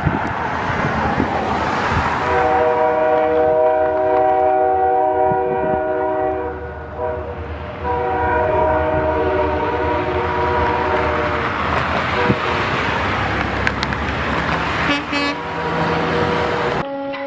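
Ship's horn sounding two long, steady blasts, each several seconds long, over a loud continuous rushing noise, as a vessel is launched.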